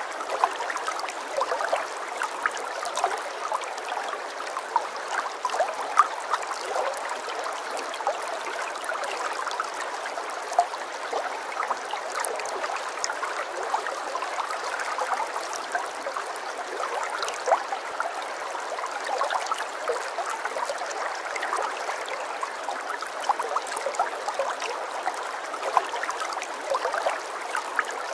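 Running water trickling and babbling steadily, dotted with many small splashes and drips.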